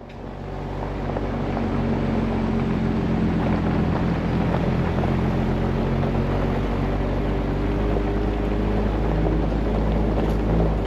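Jeep engine running steadily under way, its drone mixed with road and wind noise. It fades in over the first second or two.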